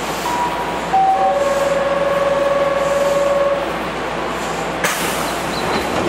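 Keihan 5000 series electric train standing at the platform before departure. A few steady electronic tones sound one after another, the last and longest for about two and a half seconds, then a short sharp hiss of air about five seconds in.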